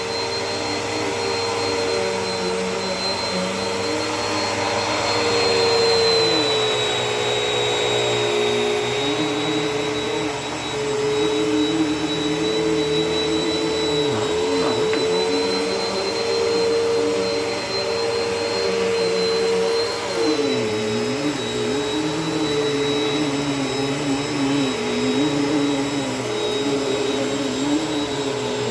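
Bissell vacuum cleaner running steadily on carpet: a continuous motor drone with a thin high whine, and a lower tone that wavers up and down in pitch as it works.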